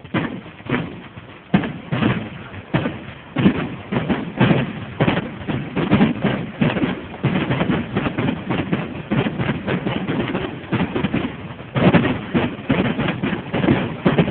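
Fireworks going off in a rapid, continuous barrage of bangs and crackles, several a second, starting suddenly with louder bangs standing out.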